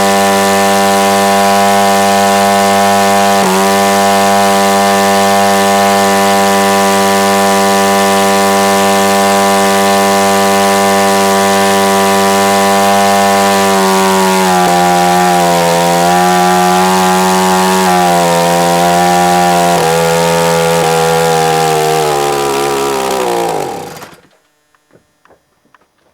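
Husqvarna chainsaw two-stroke engine, converted to electronic ignition, running a large model-airplane propeller at a steady high speed. About halfway through, the speed dips and wavers a few times. Near the end the engine winds down and stops.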